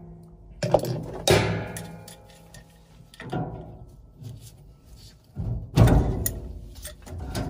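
Metal clanks and knocks on an old Coleman gas furnace, several in a row, each ringing out briefly before fading.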